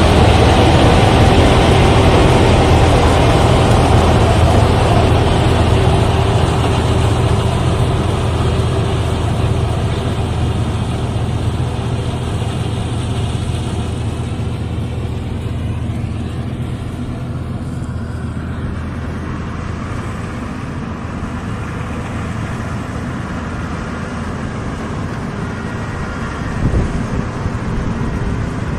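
Rice combine harvester's engine running steadily. It grows quieter over the first twenty seconds or so, then holds level, with a brief knock near the end.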